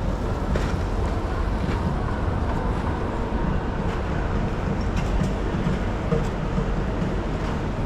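New York City subway train running: a steady, dense rumble with a few faint clicks scattered through it.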